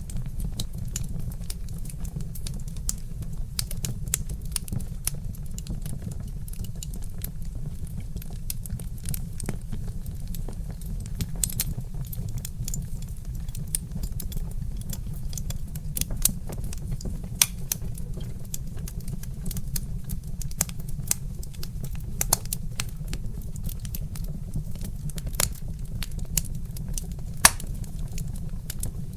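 Wood fire crackling in a fireplace: a dense, irregular run of small snaps and pops, with a few louder pops, over a steady low rumble.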